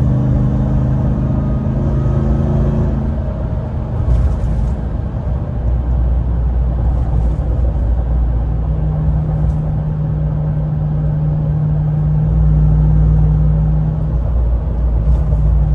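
Ram TRX's supercharged 6.2-litre V8 pulling under load while towing a trailer, heard from the cab: the engine note rises over the first few seconds as it accelerates, then settles into a steady low drone at cruise, with road rumble underneath.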